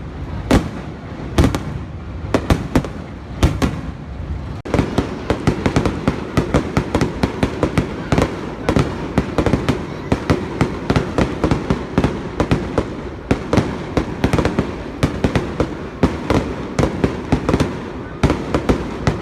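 Fireworks going off: separate loud bangs about a second apart, then from about five seconds in a dense, rapid run of bangs and crackles.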